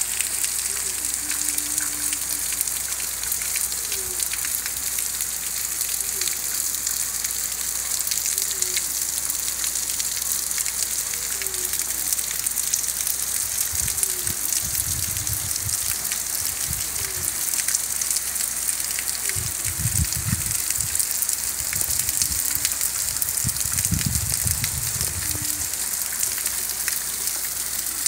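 Steady rain falling on a paved street and roofs, an even hiss, with a few low rumbles in the second half.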